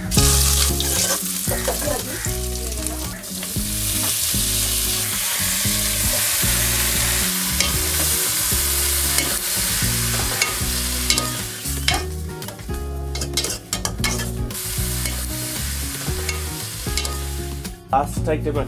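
Food sizzling as it fries in an aluminium pot on a gas stove, stirred with a metal ladle. The sizzle is strongest for the first twelve seconds or so, then thins out into scattered scrapes and clicks of the ladle against the pot.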